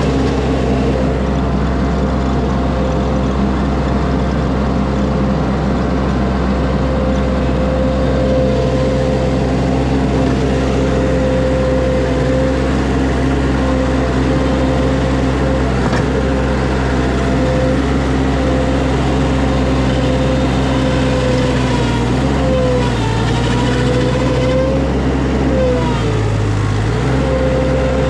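Skid steer engine running steadily at working revs. Its pitch sags briefly three times in the last third, as the engine is pulled down under digging load.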